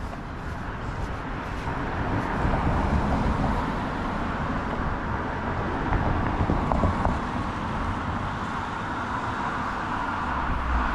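City street traffic: a steady rumble of passing cars, with the low rumble of a vehicle growing louder near the end.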